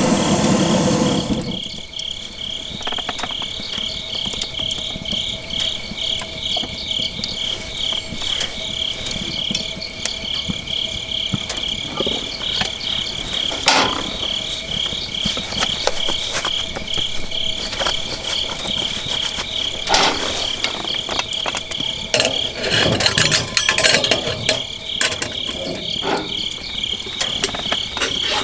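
Crickets chirping in a steady fast pulse, with a few sharp knocks and clicks scattered through. A loud rushing noise cuts off suddenly about a second and a half in.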